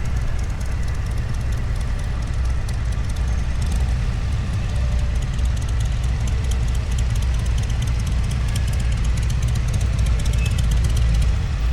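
Steady low rumble of motor vehicle engines running, with faint light clicking above it.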